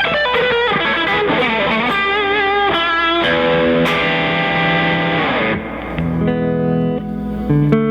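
PRS semi-hollow electric guitar with P90 pickups playing a lead line with bent and wavering notes, then holding notes. About two-thirds of the way through, the tone turns darker and chords ring out.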